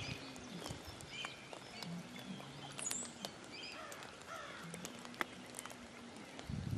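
Quiet outdoor background with scattered faint bird chirps and a few small clicks. A low rumbling noise starts near the end.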